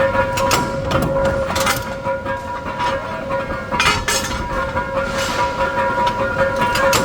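Workshop machinery running with a steady whine, broken by irregular sharp metallic knocks and clanks.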